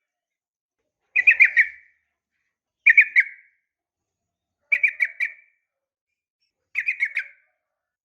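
Yellow-vented bulbul (trucukan) calling: four short bursts of three or four quick chirping notes, one about every two seconds. The uploader presents it as a female calling to a male.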